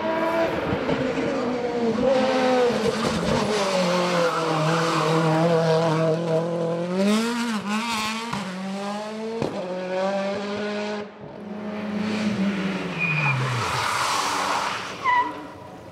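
Hillclimb race car driven flat out, its engine held at high revs with quick up-and-down swings in pitch mid-way and falling away near the end, with brief tire squeal.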